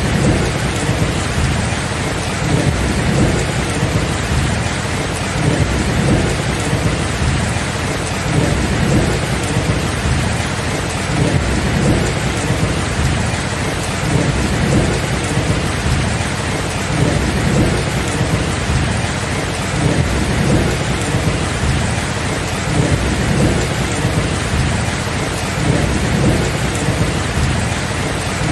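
Steady rain with a continuous low rumble of thunder underneath that swells and fades every second or two.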